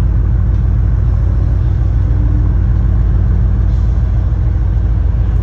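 Steady low rumble of a car driving at an even pace, with no revving.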